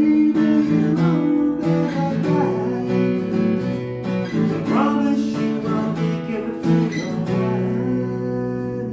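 Hummingbird-style acoustic guitar strummed in chords, each chord left to ring between strokes.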